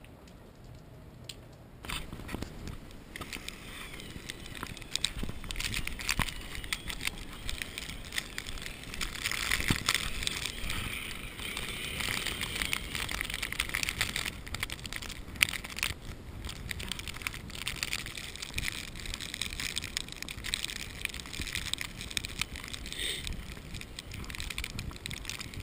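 Footsteps crunching through fresh snow: an irregular crackling crunch that starts about two seconds in and keeps on.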